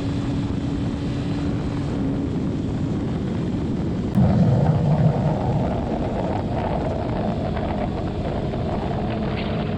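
Kawasaki Ninja ZX-6R inline-four engine running at highway speed, heard on board with wind rushing past. About four seconds in, the sound gets suddenly louder for a second or two, then settles back to a steady drone.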